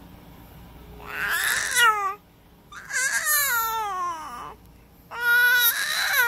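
Baby vocalizing: three drawn-out cries, each falling in pitch.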